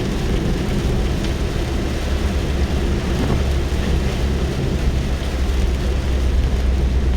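Rain falling on a car, heard from inside the cabin: a steady patter of drops over a constant low rumble from the car.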